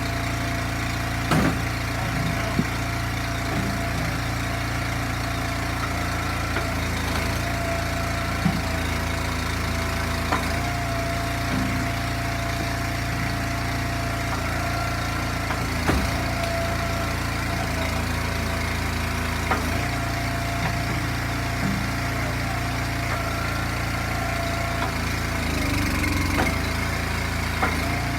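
Gas engine of an Eastonmade log splitter running steadily, with a few short sharp knocks now and then.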